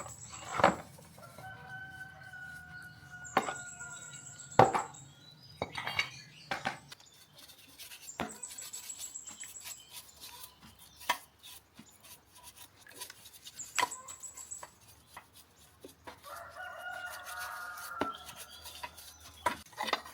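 A rooster crowing twice in the background, a long pitched call early on and another near the end. Sharp clicks and knocks of hand work on engine parts run throughout, two of them loud.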